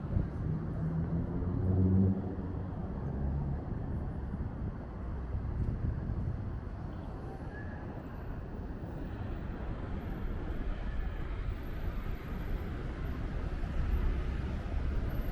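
Busy city street: road traffic rumbles steadily, with a vehicle engine's low pitched hum standing out over the first few seconds.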